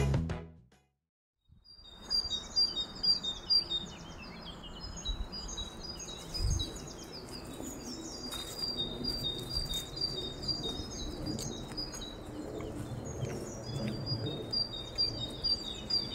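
Background music fades out in the first second; after a short silence, several woodland birds sing, with many quick, repeated high chirps and trills over a steady low background noise. A single low thump about six seconds in.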